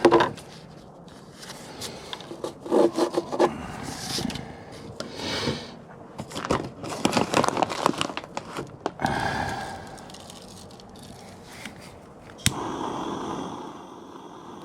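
Wood scraping and rubbing in irregular strokes as a small wooden board is worked by hand, with a sharp click near the end.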